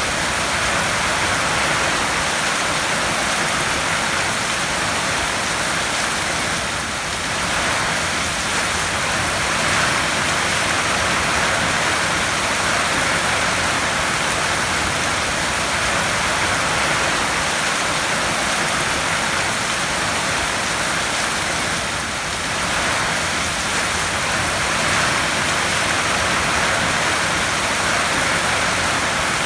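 Heavy rain drumming on a tin roof as a dense, steady hiss, easing very slightly twice.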